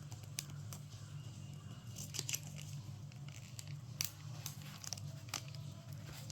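Phone box packaging being handled and opened: crinkling and tearing with scattered sharp clicks and taps, over a steady low hum.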